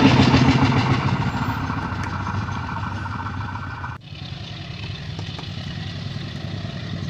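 Diesel train running past and fading away, its rumble and noise dropping steadily, then a sudden cut about four seconds in to a quieter, steady vehicle rumble.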